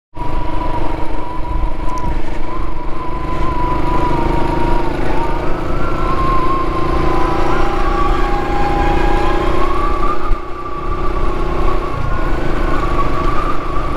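Motorcycle running at road speed with heavy wind buffeting on the microphone. A steady engine drone runs under a whine that drifts up and down a little in pitch; part of the drone drops out about twelve seconds in.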